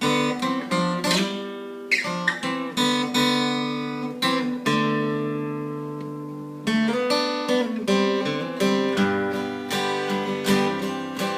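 Solo acoustic guitar playing a song's intro: a few strummed and picked chords, then one chord left ringing and fading for several seconds before the picking starts again.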